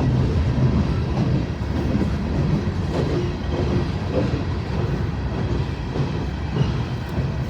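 Train running on the rails: a steady, loud, low rumble of wheels and cars.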